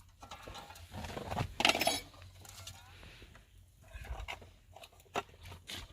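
Light clinks and knocks of objects being handled, with a short, louder clatter about two seconds in.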